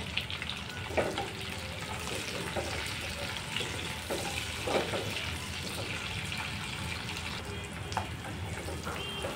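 Sliced onions sizzling in hot oil in a pan, with a steady hiss, while a wooden spatula stirs them and scrapes the pan a few times.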